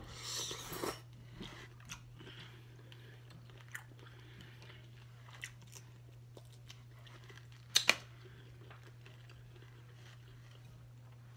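A person biting into a boiled shrimp and chewing it close to the microphone. The bite comes at the start, followed by soft wet chewing and small mouth clicks, with two sharp clicks close together about eight seconds in.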